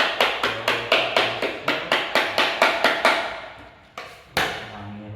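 Rapid, even knocking, about four blows a second, like a hammer striking during building repair work; it stops about three seconds in and two single knocks follow near the end. Background music plays underneath.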